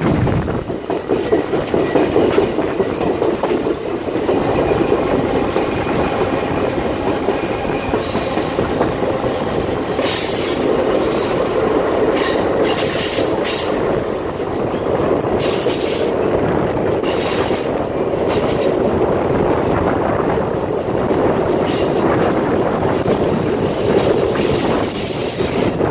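Alaska Railroad passenger train running along the track, heard from aboard: a steady rumble of the wheels on the rails. From about eight seconds in come repeated high-pitched wheel squeals, each a second or two long, as the cars round a curve.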